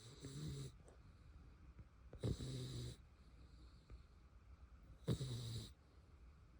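French bulldog snoring in deep sleep: three snores about two and a half seconds apart, each a little over half a second long.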